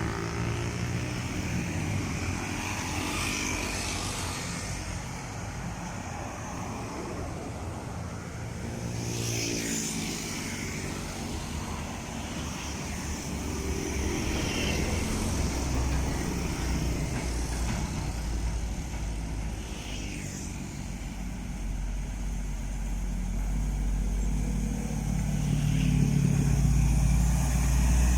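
Road traffic with trucks running past: steady low engine noise with a few brief passing rushes, and a heavy vehicle's engine growing louder near the end.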